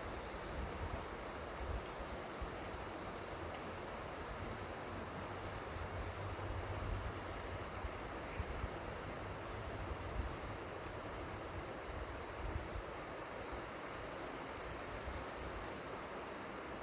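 Steady rushing of the Seomjin River's flowing water, with wind buffeting the microphone in uneven low rumbles.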